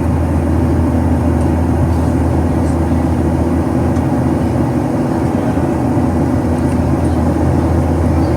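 Cabin noise of a Boeing 737-800 in its climb after takeoff: the steady low drone of its CFM56-7B engines under a constant rushing hiss, heard from inside the cabin.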